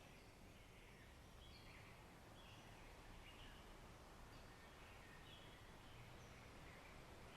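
Faint birds chirping in short, scattered calls over a low, steady background rush of nature ambience.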